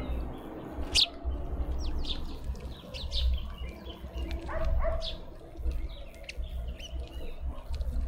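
Small birds chirping: a scatter of short, high chirps and calls, the sharpest about a second in, over a steady low rumble.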